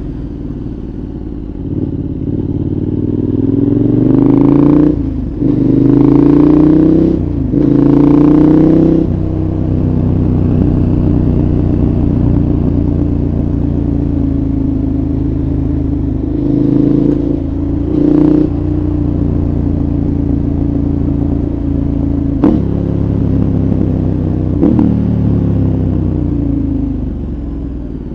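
2014 KTM 1190 Adventure's V-twin through a Giannelli exhaust with dB killer, heard onboard: accelerating hard a few seconds in, pitch climbing through three gears with short breaks at the upshifts, then holding a steady pace. A brief rev rises and drops about two-thirds of the way in, and the pitch falls toward the end as the bike slows.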